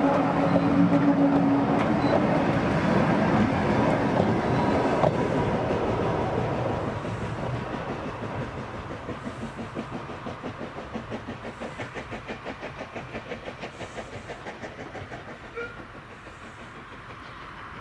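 Steam-hauled passenger train of vintage carriages passing close and drawing away, the wheels clattering over the rail joints. The sound fades steadily, leaving a regular rhythmic beat, a few a second, that grows fainter as the train goes off into the distance.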